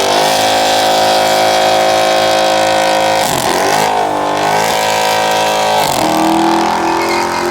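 Car engine revving hard and held at high revs, dipping briefly about three seconds in and again near six seconds before climbing back.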